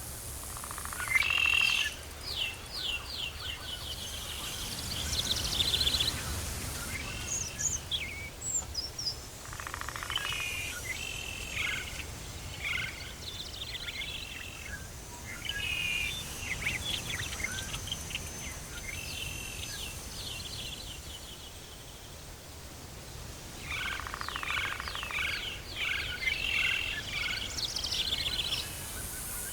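Tropical forest ambience: several birds calling, with repeated runs of quick chirping notes coming in clusters, over a faint low rumble.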